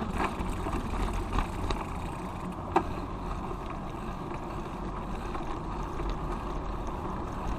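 Riding a bicycle: steady wind rumble on the microphone with tyre and road noise, and one sharp click about three seconds in.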